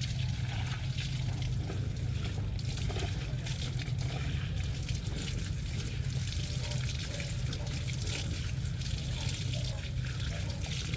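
Water running and trickling steadily over a steady low hum.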